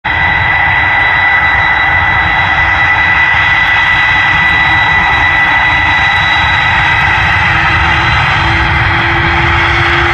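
Airbus A330-300's General Electric turbofans spooling up for takeoff: a loud, steady jet roar with a high steady whine, and a lower tone that creeps up in pitch near the end.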